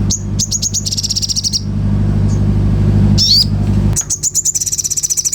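Sogon songbird singing in fast bursts of high, repeated chirps that run into rapid trills. A steady low hum sits underneath and stops about four seconds in.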